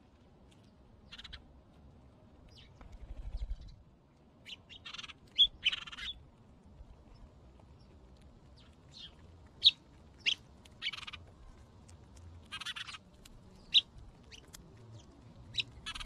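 Small birds chirping: short, sharp, high chirps scattered irregularly, three of them standing out louder, mixed with a few longer, harsher noisy calls.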